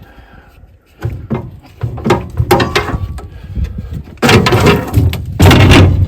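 A run of loud knocks and clattering over a heavy rumble, starting about a second in and loudest in two bursts over the last two seconds.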